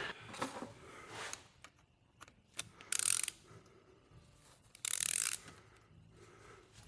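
Hand ratchet wrench clicking in two short runs of rapid ratcheting, with a few scattered clicks and taps of tools between them.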